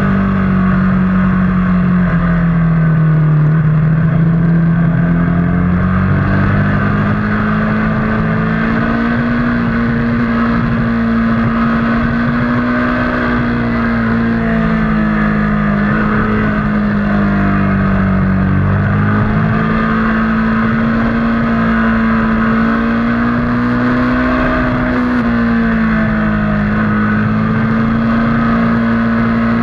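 Motorcycle engine under load on a racetrack, heard onboard. The engine note rises and falls through corners and straights, with a dip a few seconds in and a brief drop later on.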